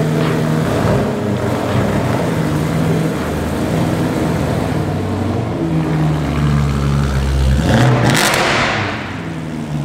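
BMW E90 M3's 4.0-litre V8 running at idle, revved once near the end, the note rising and then falling back.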